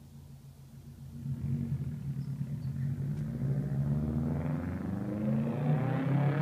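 Subaru WRX's turbocharged flat-four running through a straight-pipe exhaust. It is quiet for about a second, then much louder with a deep rumble, and the revs climb through the second half.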